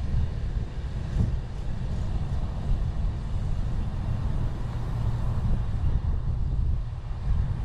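Steady, buffeting low rumble of wind and road noise on the microphone of a camera riding on a moving bicycle, with a slight swell about halfway through.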